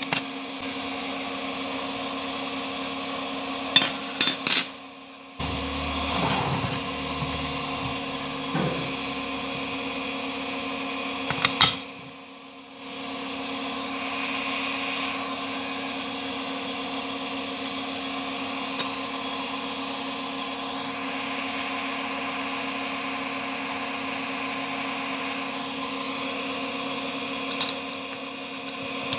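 Steady hum of a running machine-tool motor, with a few sharp metallic clinks; the hum dips out briefly twice.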